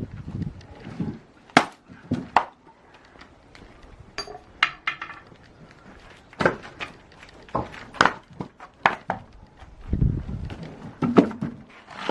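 Axe blows on oak logs being split for firewood: a series of sharp wooden knocks at irregular intervals, roughly one every second or two.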